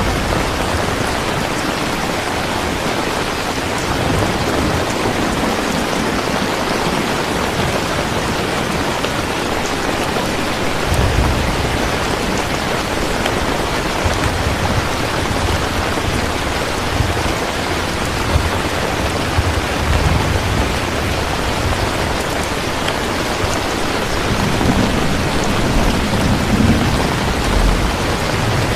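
Steady, even rain falling, with low rumbles of distant thunder swelling and fading several times in the second half.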